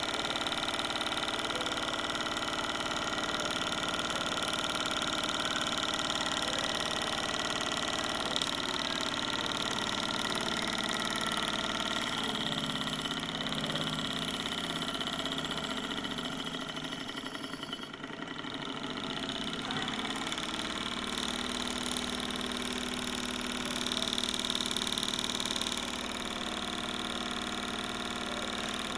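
Small model Stirling engine running steadily with a mechanical whir of several steady tones. The sound dips briefly a little past the middle, then settles again.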